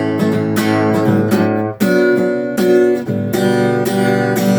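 Instrumental passage of strummed chords, struck and let ring, with no singing.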